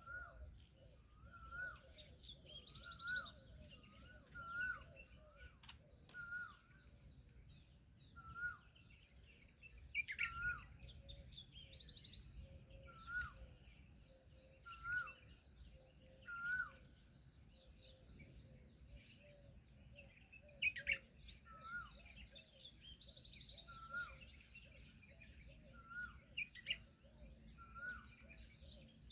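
Several birds chirping and calling together. One bird repeats a short rising-and-falling note about once every second or so, over a scatter of higher chirps.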